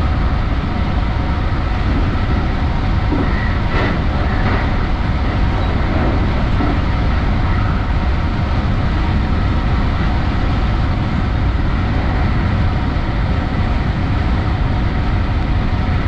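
Electric commuter train running at speed, heard inside the front car: a steady low rumble of wheels on the rails, with a few faint clicks about four seconds in.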